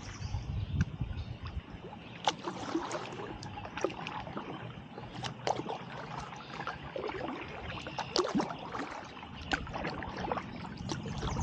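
Kayak paddle dipping into calm river water, with a scatter of small splashes and drips off the blade. A low wind rumble on the microphone in the first second or two.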